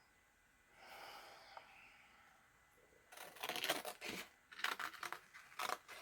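Paper being handled: a soft rustle near the start, then from about three seconds in a run of short, crisp papery strokes.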